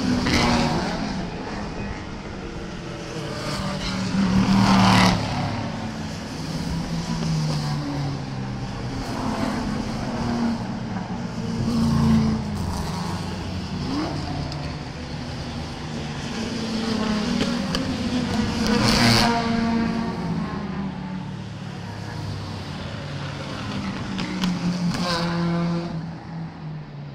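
Racing cars passing one after another, their engines loud at each pass and changing pitch as they go by, with four main passes.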